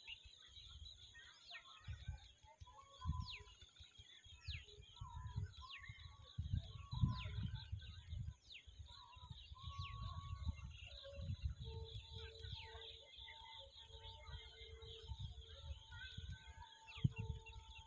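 Birds calling with short falling whistles, roughly one a second, over a gusty low rumble of wind on the microphone. From about two-thirds of the way through, a low tone pulses over and over beneath the calls.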